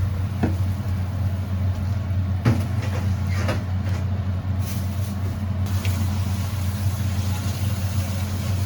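A steady low mechanical hum, with a few light clicks and knocks over it.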